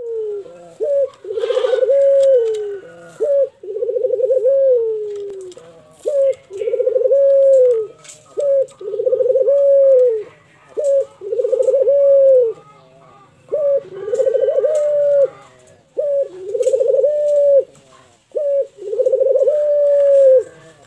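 A Barbary dove (puter) cooing over and over: about nine coos, each a short clipped note followed by a longer rolling coo, repeating every two seconds or so. Faint chirps of other birds sound in the background.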